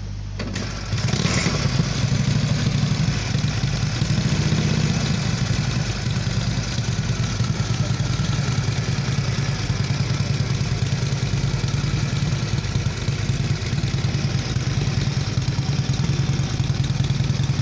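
Indian Chief's V-twin engine starting up, catching about a second in, then idling steadily with a fast, even pulse.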